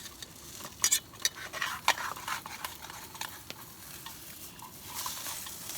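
Cheese and bacon omelet sizzling in a frying pan on a camp stove, with the clicks and scrapes of a fork or spatula working it in the pan; the sharpest scrapes come about a second and two seconds in.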